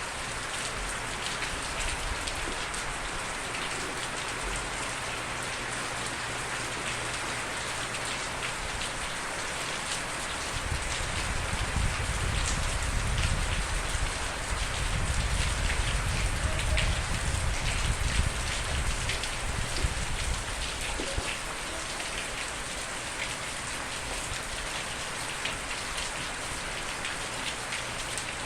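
Steady rain falling, a dense even hiss of drops on surfaces. A deeper low rumble swells and fades over about ten seconds in the middle.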